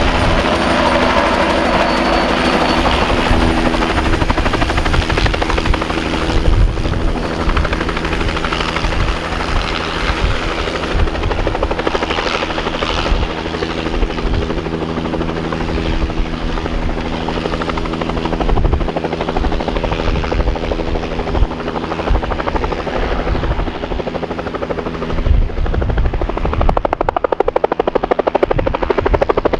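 Helicopter running close by: a steady turbine and gearbox hum with the rotor's rapid low thudding, which grows louder and more pronounced near the end.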